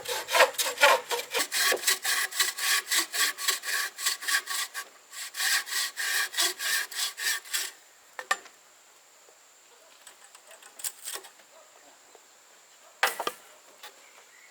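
Hand saw cutting through wood in quick back-and-forth strokes, about three a second, with a short pause midway. It stops about two thirds in, leaving a few scattered knocks, with a steady high insect buzz behind.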